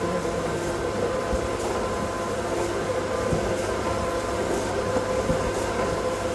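Plastic-processing machinery running with a steady hum and fixed whining tones, with a few faint light ticks.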